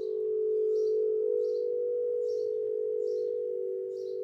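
Singing bowl sounding a steady, slightly wavering tone, with a bird chirping over it about every three quarters of a second.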